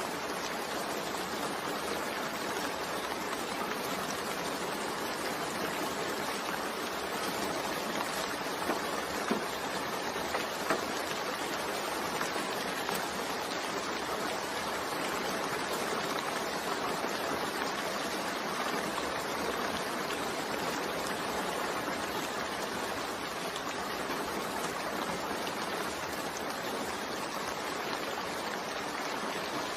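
Steady, continuous rain mixed with white noise, an even hiss with a few slightly louder drops about ten seconds in.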